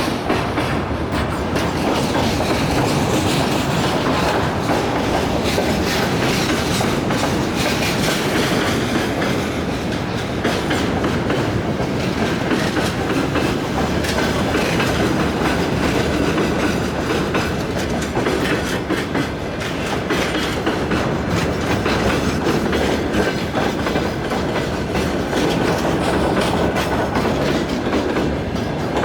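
Freight train wagons rolling steadily past, the wheels clattering over the rail joints in a continuous clickety-clack.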